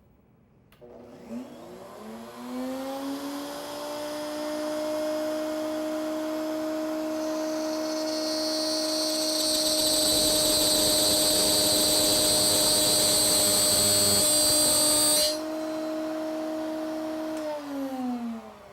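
Router-table router starting up and spinning up to a steady high whine, then cutting a slot through the jig's wooden fence, the louder, harsher stretch through the middle. Near the end it is switched off and winds down.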